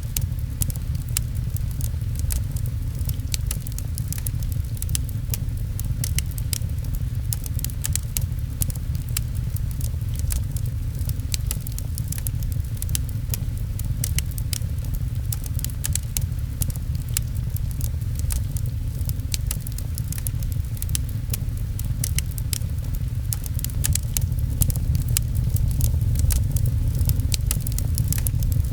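Fireplace crackling with frequent sharp pops over a steady low rumble, with rain pattering on a window.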